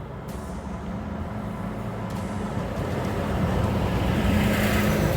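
Heavy truck's engine and tyres growing steadily louder as it approaches.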